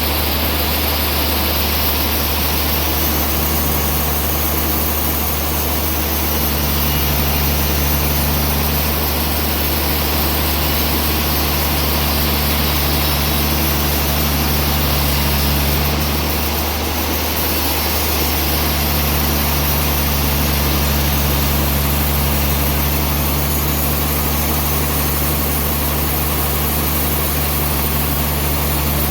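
Sawmill machinery running steadily while sawing a trembesi (rain tree) log, a continuous low machine hum with a brief change in its tone about halfway through.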